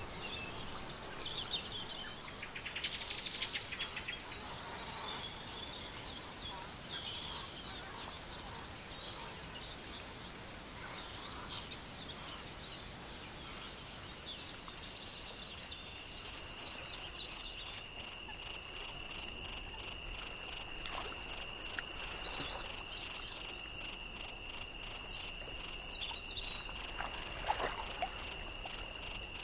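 Birds chirping in scattered short calls. About halfway through, insects take over with a steady high trill and a second high chirp pulsing evenly about twice a second.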